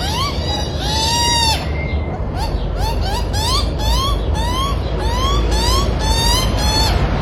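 A bird calling over and over, short rising calls about two a second, with one longer arched call about a second in. A steady low rumble runs underneath.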